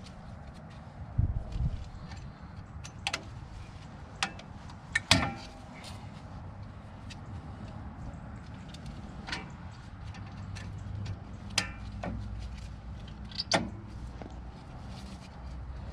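Scattered sharp clinks and knocks of hand tools and brake parts, about a dozen over the stretch with the loudest about five seconds in, during drum brake work. A steady low rumble runs underneath.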